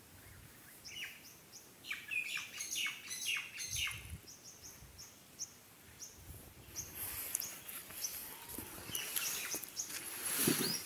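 Faint bird chirping: a string of short falling chirps, then a run of quick high peeps.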